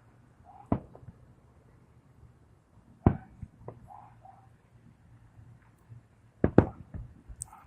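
Fireworks bursting: single bangs about a second in and three seconds in, each followed by a few smaller pops, then a quick cluster of bangs near the end.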